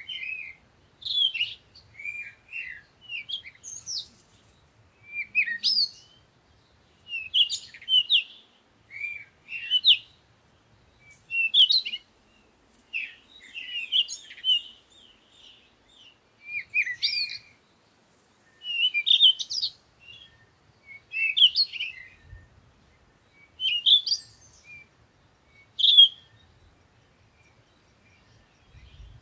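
Songbird singing short chirping phrases that glide up and down in pitch, repeated about every one and a half to two seconds with brief gaps between.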